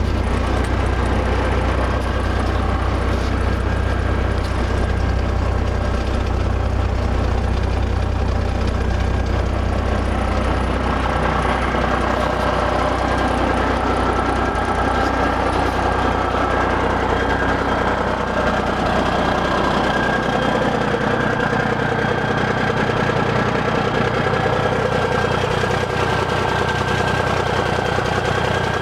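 Diesel engine of a 1991 International 9600 truck tractor idling steadily. About twelve seconds in, its deep hum weakens and its mid-pitched tone comes forward.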